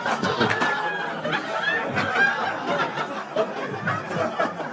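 Stand-up comedy audience laughing and cheering, with a few scattered claps, the noise dying down towards the end.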